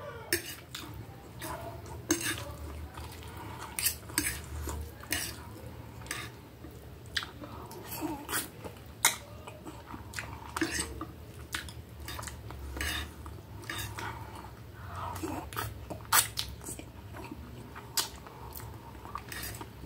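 A person chewing mouthfuls of food close to the microphone, with scattered sharp clicks of a fork and knife against the plate.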